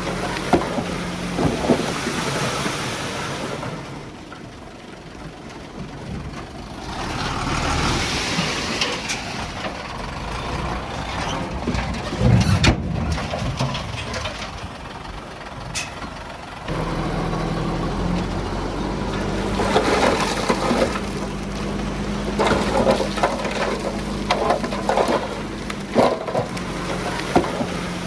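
Diesel engine of heavy earthmoving machinery running under load, with scattered knocks. Its engine note steps up and grows louder a little past halfway through.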